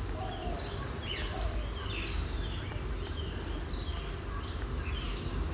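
Small birds chirping in short, repeated calls over a low steady hum.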